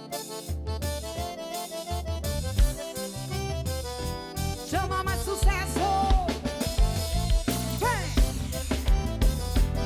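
Band music with a steady drum-kit beat, bass and keyboard; a sliding melodic line comes in about five seconds in.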